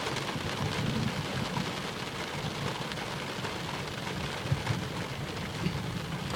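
Heavy rain drumming steadily on the roof and body of a Jeep, heard from inside the cabin, with a low rumble underneath.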